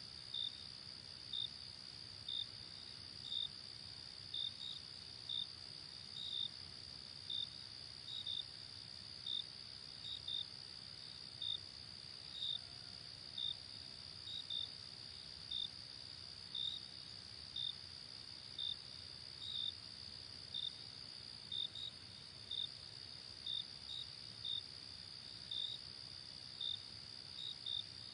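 Night insect chorus: a steady high-pitched trill, with a cricket's short chirps standing out over it about once a second.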